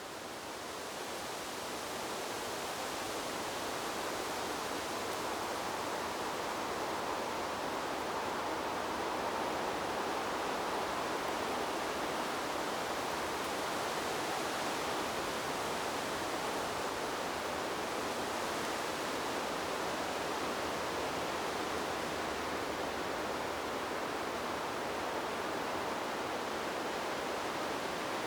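Wind blowing through trees as a steady, even rushing noise that swells over the first couple of seconds, then holds level.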